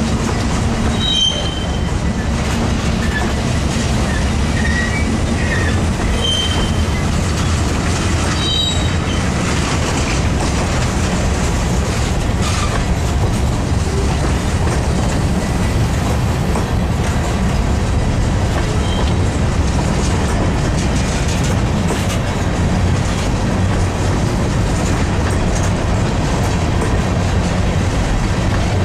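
Long freight train's cars rolling past: a steady rumble of steel wheels on rail. A few short, high squeals come in the first nine seconds or so.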